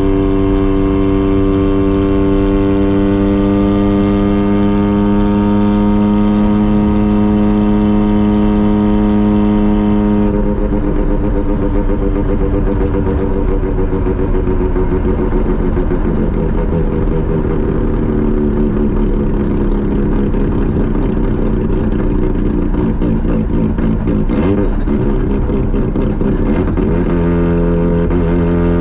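Mazda RX-7's two-rotor rotary engine and exhaust while driving. There is a steady drone under light throttle whose pitch rises slowly, and about ten seconds in it breaks into a rougher, uneven off-throttle sound. Near the end a steady drone comes back as power is applied again.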